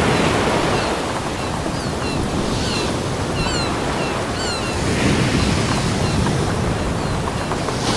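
Ocean surf washing onto a beach, a steady rush that swells again as a wave breaks about five seconds in. Short, high, falling bird calls chirp over it between about two and five seconds in.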